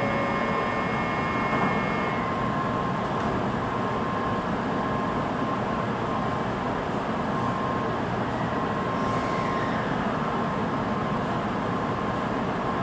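Steady hum and whir of a Shinkansen train standing at the platform, its onboard equipment running.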